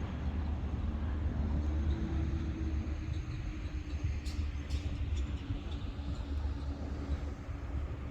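Wind rumbling on the microphone, with a faint steady hum beneath it and two faint clicks about halfway through.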